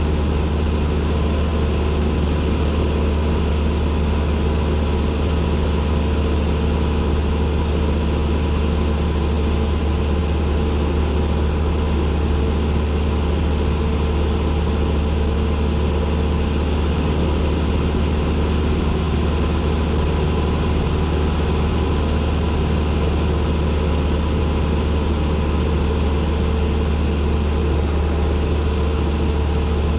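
Cessna 172N's four-cylinder Lycoming piston engine and propeller running steadily, a constant low drone heard from inside the cockpit.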